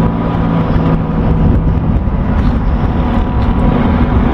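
Diesel engines of a steel commercial workboat with dry exhaust stacks, running in a steady drone, with wind rumbling on the microphone.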